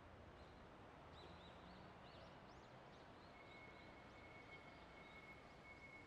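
Faint street ambience with small birds chirping: many short, quick arched notes. A thin steady high tone comes in about halfway through.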